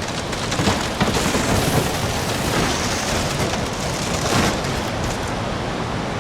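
Strong gusty wind blowing hard and buffeting the microphone, swelling in gusts about a second in and again around the middle.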